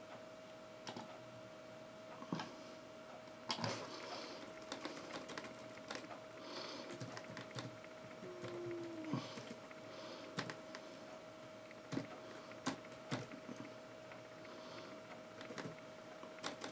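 Scattered light taps, clicks and soft rustles at an uneven pace, over a faint steady hum, with one brief falling squeak about halfway through.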